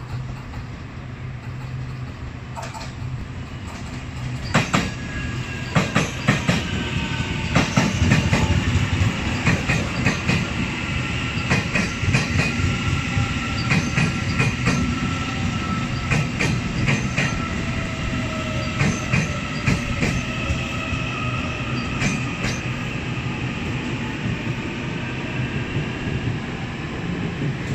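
A Taiwan Railways EMU800 electric commuter train pulls into the station. A low rumble swells as it draws near, and its wheels clack rapidly over the rail joints. A thin electric motor whine falls in pitch as the train slows.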